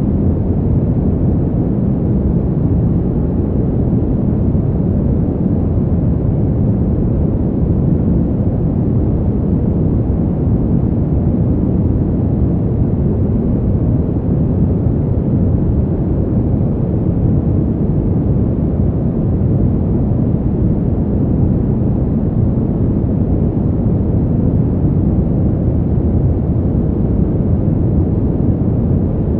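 Steady, deep winter wind ambience: an even, low noise with no gusts, rises or breaks.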